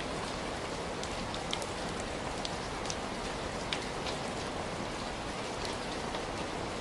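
Heavy rain falling steadily in an even hiss, with scattered crisp drop ticks on a surface.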